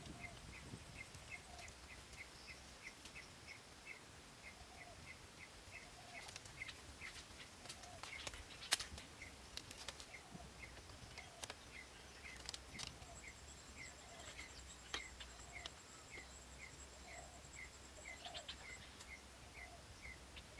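Faint outdoor ambience: a steady run of short, identical chirps about three a second, with scattered clicks and one sharp knock a little before the middle.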